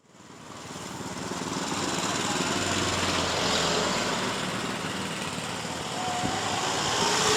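Street traffic with small motorcycle engines running, fading in over the first couple of seconds.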